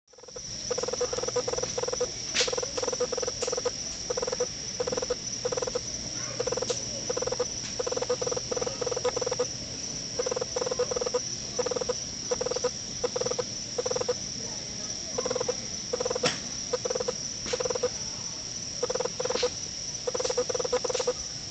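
Campfire wood crackling, with a few sharp pops, over a night chorus: a steady high insect drone and a frog calling in repeated runs of short low notes.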